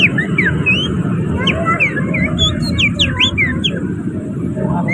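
Human finger-whistled imitation of an oriental magpie-robin (kacer) song: a rapid string of short whistled notes sliding up and down. It runs over a steady low rumble of traffic.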